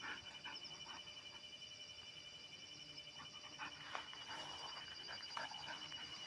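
A dog giving short, high-pitched whines in scattered groups, a few at the start and more between about three and five and a half seconds in, over a faint steady high-pitched electronic whine.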